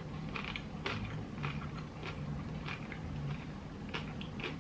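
Close-up eating sounds from a mukbang: chewing a burrito bowl, with irregular small clicks and crunches a few times a second.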